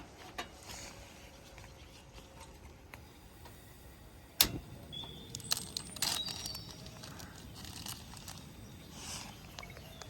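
Sharp click about four seconds in, followed by a quick cluster of clicks and short high metallic clinks, over a faint outdoor background.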